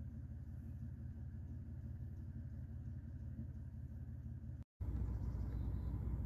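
Vehicle engine idling with a steady low rumble. It drops out for an instant about four and a half seconds in, then comes back a little louder.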